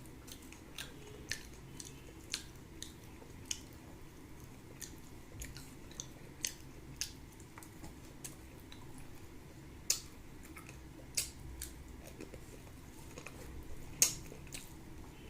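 A person chewing close to the microphone: scattered sharp, wet mouth clicks and smacks, one or two a second. The loudest come about ten seconds in and near the end.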